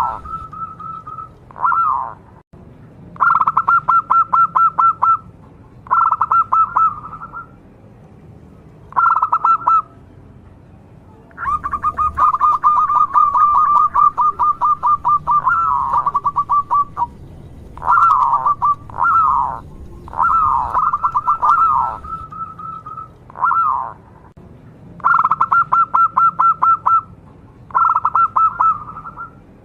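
Zebra dove (local perkutut) cooing: a string of short phrases of quick stuttering coos at one steady pitch. One much longer rolling run comes about halfway through.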